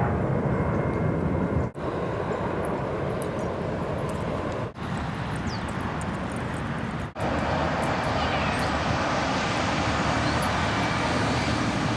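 Loud, steady outdoor rumble and hiss, of the kind PANN files with a passing aircraft or traffic. It cuts out briefly three times, and after the third cut it carries more hiss.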